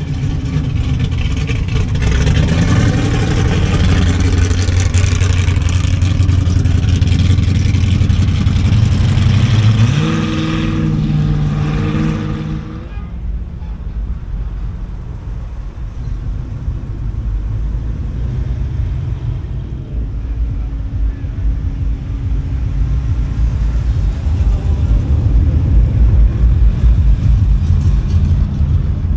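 Classic cars driving past one after another. A loud engine runs for the first twelve seconds and revs up, rising in pitch, about ten seconds in, then fades abruptly; quieter engines and tyre noise follow, with a deep low engine rumble growing near the end.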